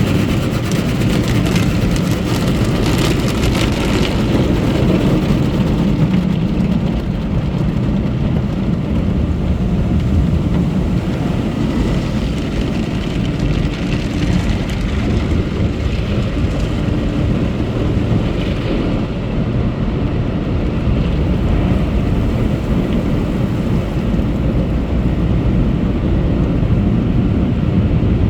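Automatic car wash running: a steady machine rumble with water spraying and drumming, the spray hiss strongest for the first six seconds or so.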